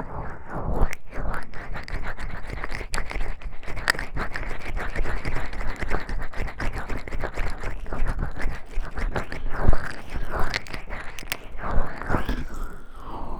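Oiled hands gently rubbing and massaging close against a 3Dio binaural microphone: a continuous run of slick, wet rubbing and small crackles.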